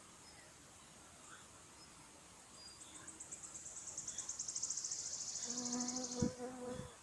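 Forest wildlife: a high, rapid trill that grows louder over about three seconds, like a songbird's trill. Near the end a low steady buzz passes close by, like a flying insect, with a short knock.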